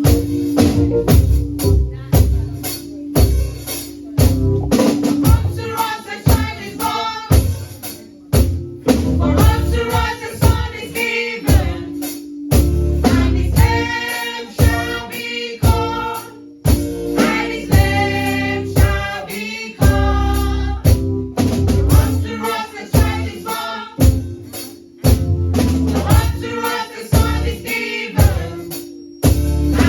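Choir singing a Christmas gospel praise song with drums and tambourine keeping a steady beat.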